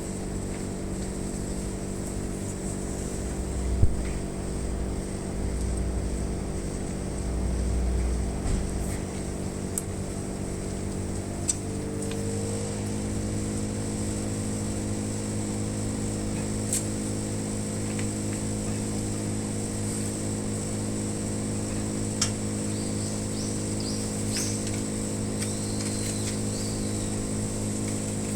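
Air conditioner outdoor unit running with a steady hum of many tones and a thin high whine, the abnormal noise the unit is making. About 12 seconds in the hum shifts in pitch and settles into a new steady tone, with a few sharp clicks here and there.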